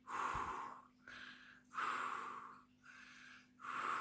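A person imitating sleep breathing, mock snoring: loud breathy snores alternating with softer exhales, repeated about three times in a slow, even rhythm.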